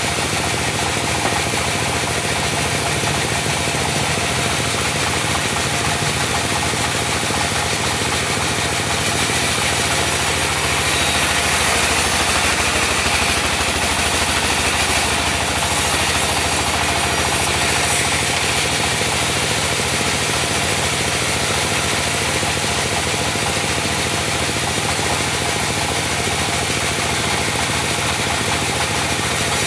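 Diesel engine of a mobile band sawmill running steadily. It grows slightly louder and brighter from about ten to eighteen seconds in.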